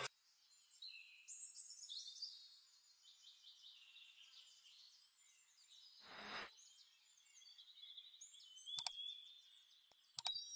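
Faint birdsong: many short chirps and trills. A brief swoosh comes about six seconds in, and two sharp clicks come near the end.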